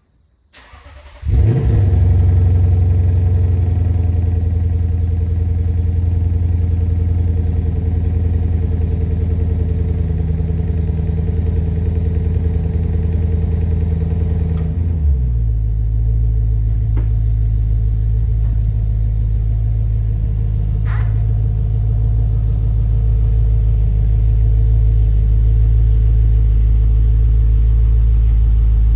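2020 Lexus GS-F's 5.0-litre 2UR-GSE V8, with an RR Racing Valvetronic exhaust, cranking and catching with a loud start about a second in, then idling steadily. About fifteen seconds in the idle drops abruptly to a lower, deeper note.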